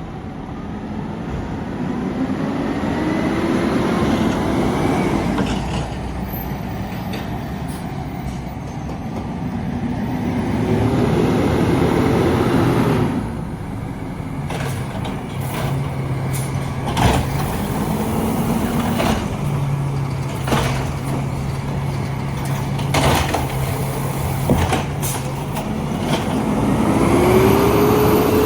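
Garbage truck engine revving up and settling back about four times, idling in between. A few sharp knocks come partway through.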